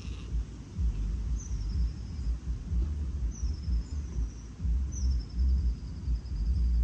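A small bird's thin, high whistles, each sliding slightly downward, heard four times with the last one drawn out, over a steady low rumble.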